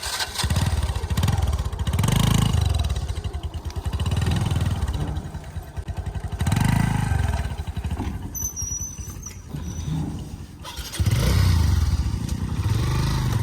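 Motorcycle engine running close by, rising and falling in loudness several times as it is revved and eased off.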